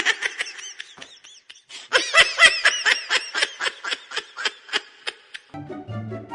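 High-pitched laughter sound effect: rapid bursts of giggling, cutting off about five and a half seconds in as background music starts.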